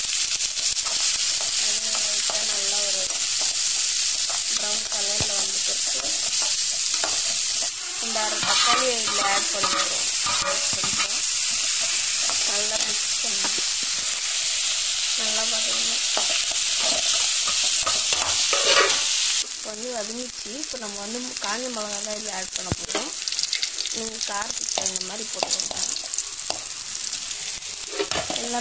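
Chopped onions and vegetables frying in hot oil in an aluminium kadai, sizzling steadily while a perforated metal ladle stirs them against the pan. The sizzle gets somewhat softer about two-thirds of the way through.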